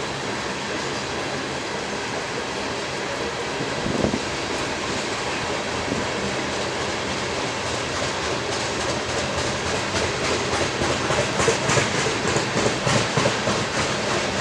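A train rolling past on the track, a steady rumble and hiss with a single thump about four seconds in. From about eight seconds on, the wheels' rhythmic clickety-clack over the rail joints grows louder.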